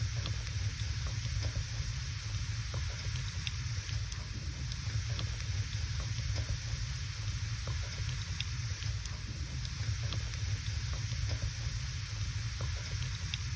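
Wood fire burning in a fireplace: scattered small crackles and pops over a steady hiss and a low rumble.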